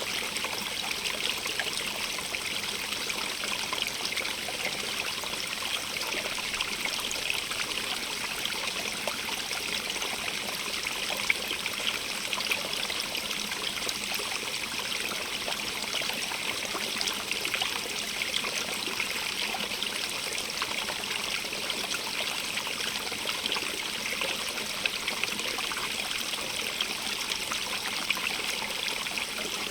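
Stream of running water, splashing and trickling steadily over stones, with a fine, bright hiss of many small splashes.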